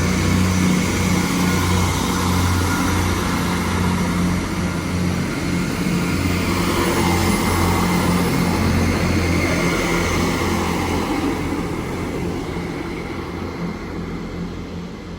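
Two coupled Class 158 diesel multiple units pulling out of the station, their diesel engines running with a steady low hum under the rumble of the train; the sound fades away over the last few seconds as the train draws off.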